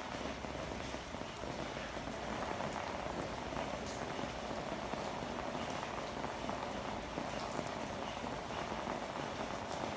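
Steady rain falling on hard surfaces, an even rush of drops with scattered small ticks of individual drops.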